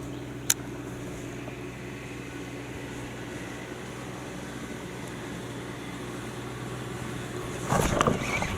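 Electric trolling motor (Minn Kota Endura 55) running at a steady hum while the kayak travels along the river. There is a sharp click about half a second in, and near the end a short, louder rush of noise.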